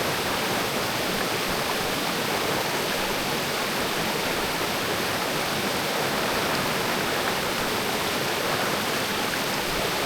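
Mountain creek water rushing over rocks, a steady even rush.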